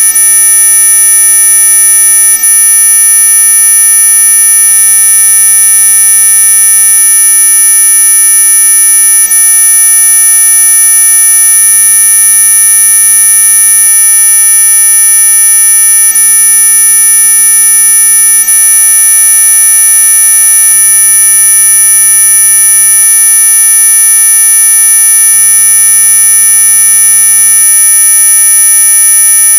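Electronic anti-mosquito repellent tone: a loud, steady, high-pitched whine made of several pure tones layered together, the highest near the top of hearing, with lower tones beneath it. It holds unchanged apart from a few brief dips in level.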